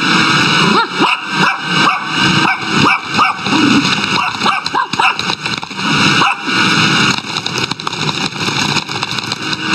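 A dog barking and yipping repeatedly over the steady noise of a running vacuum cleaner.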